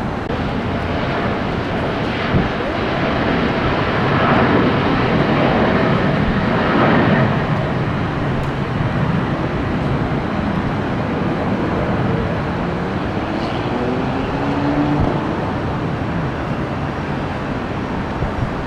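Jet airliner engines running as the plane passes, a steady roar that builds to its loudest about four to seven seconds in and then eases off.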